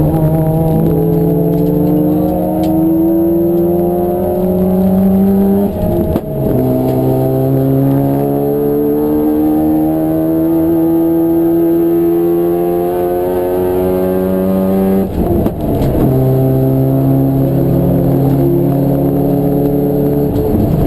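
Race car engine under hard acceleration, its pitch climbing steadily through a long pull. It shifts up about six seconds in and climbs again, then drops sharply near the two-thirds mark as the car comes off the throttle and runs on at lower revs.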